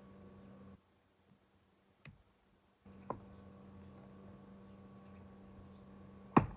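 A few sharp clicks or knocks, the loudest near the end, over a steady low hum that drops out for about two seconds.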